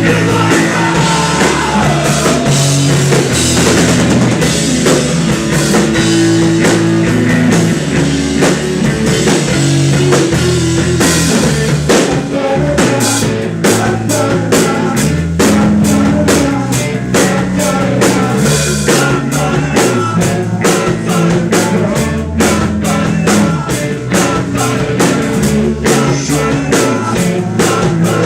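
Live rock band playing a song, drum kit to the fore over bass and guitar, with steady cymbal and drum hits.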